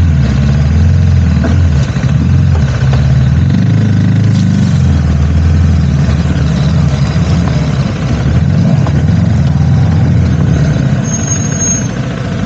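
Motorcycle engine running while riding, its note rising and falling with the throttle and easing off about eleven seconds in. A brief high squeal near the end.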